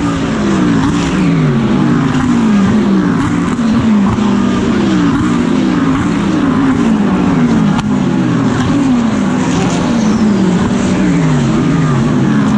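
GT3 race car engine heard onboard at racing speed, its pitch sliding down again and again, about once a second.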